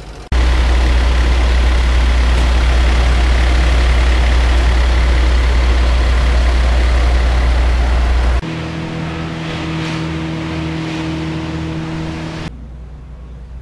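Steady motor-vehicle engine noise in three abrupt cuts: a loud, constant low rumble for about eight seconds, then a steadier humming engine idling, then quieter traffic-like noise for the last second.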